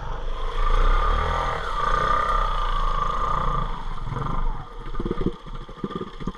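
Four-wheel-drive ATV engine running, then settling into an idle of even, rapid pulses about four and a half seconds in.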